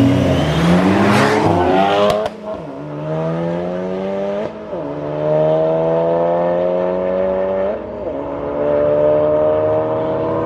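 A car engine accelerating hard down a drag strip, its pitch climbing through the gears, with upshifts about two, four and a half and eight seconds in.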